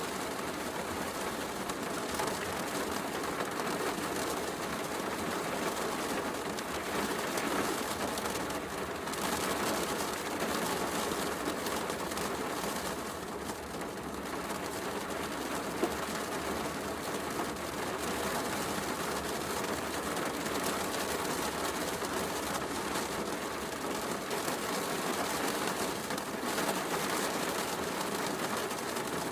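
Steady heavy rain mixed with a fireplace crackling, with one sharper pop about sixteen seconds in.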